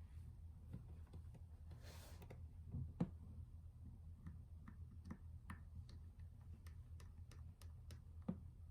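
Light, sharp clicks, about two or three a second, with one louder knock about three seconds in: small parts and tools being handled while working on a Nintendo Switch.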